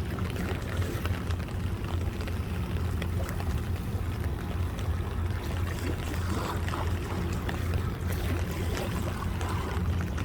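Steady low drone of a passing barge tow's diesel engines, with river water splashing and lapping at the bank.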